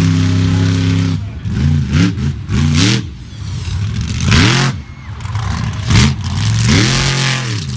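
Monster truck engine revving hard and repeatedly: a held high rev for about a second, then several quick blips, then longer climbs and drops in pitch.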